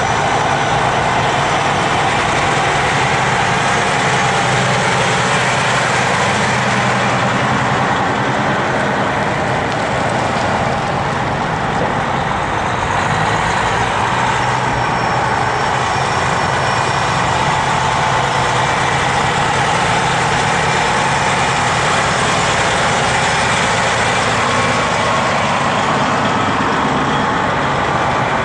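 Heavy trucks' engines running steadily, a continuous low rumble.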